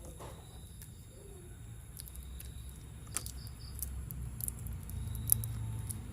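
Scattered light clicks and taps over a low rumble, with one sharper click about five seconds in; the rumble grows a little toward the end.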